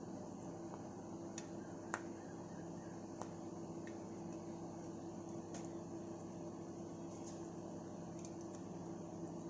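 Steady low mechanical hum in a small room, with a few faint, sharp clicks scattered through it.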